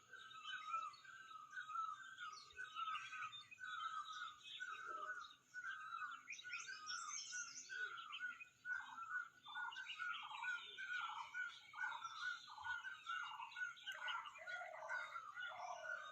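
Early-morning chorus of several songbirds chirping together. One bird repeats a short call about twice a second, and from about halfway its notes drop lower in pitch.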